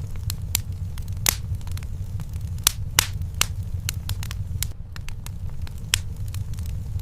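Fireplace fire burning: wood crackling and popping at irregular intervals over a steady low rumble, with a few sharper pops about a second, three seconds and six seconds in.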